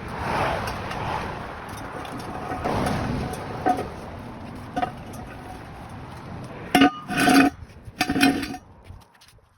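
Steady background noise, then a quick run of sharp metal clanks and clinks that ring briefly, loudest about seven seconds in, the sound of metal tools or parts being handled.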